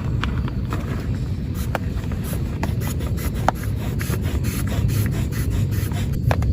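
Heavy rain falling on a tent: a steady low rumble with many sharp drop hits on the fabric.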